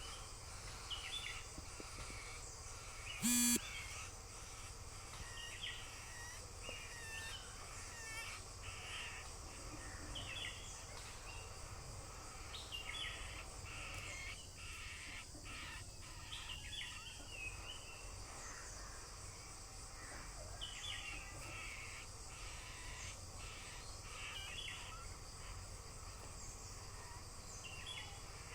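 Birds calling, many short calls repeating throughout, with a brief loud sound about three seconds in.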